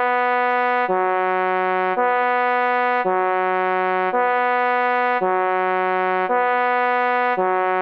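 Two-tone emergency vehicle siren alternating steadily between a lower and a higher note, each held about half a second.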